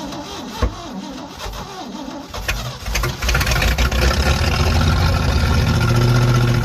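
Chevy 283 V8 cranking over on the starter with a rhythmic whir, then catching about two and a half seconds in and running steadily and loudly on its first start in 40 years.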